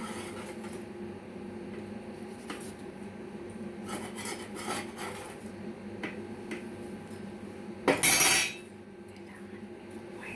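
Dishes, pans and cutlery clinking and clattering, with one loud clatter about eight seconds in, over a steady low hum.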